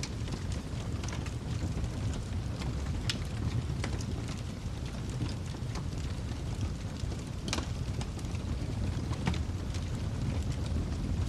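Wood fire burning in a fireplace: a steady low rumble of flames with scattered sharp crackles and pops, a few louder ones about three, seven and a half and nine seconds in.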